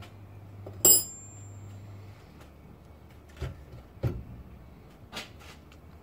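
Metal clinks and knocks from hand tools and car parts while a car's front end is being dismantled. About a second in, a sharp metallic clink rings briefly, followed by three duller knocks.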